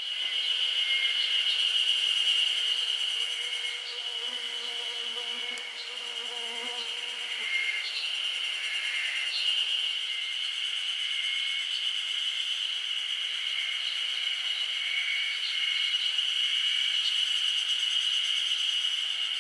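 Insects calling in a continuous high, buzzing drone, with short chirps scattered through it.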